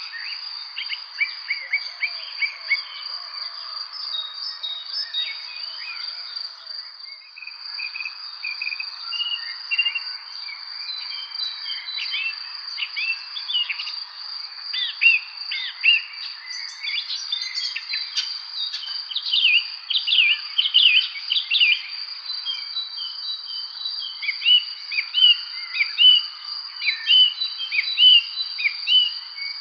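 Evening spring bird chorus: many songbirds chirping and singing in short quick calls, busier and louder from about halfway through, over a continuous high, steady insect trill and a soft background hiss.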